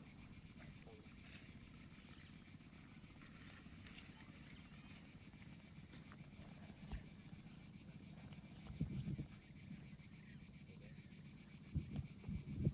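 Steady high-pitched chorus of tropical insects, with a few low bumps about three-quarters of the way through and again near the end.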